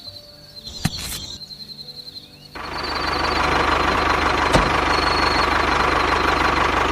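A click about a second in, then a small engine starts up about two and a half seconds in and runs loudly with a fast, even firing rhythm.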